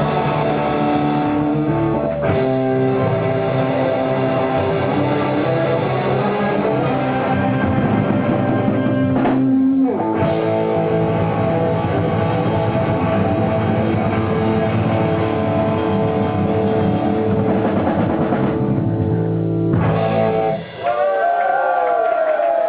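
Live rock band playing, with electric guitar, bass and drum kit. The music stops about twenty seconds in, and voices and whistles from the crowd follow.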